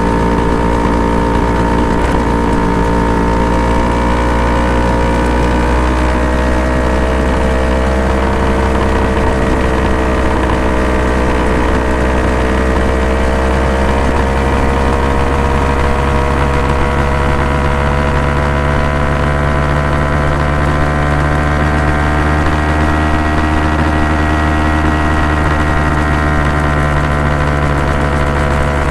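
Honda NSR250 two-stroke V-twin running steadily through Dog Fight Racing expansion chambers, its pitch wavering only slightly up and down, with no sharp revs.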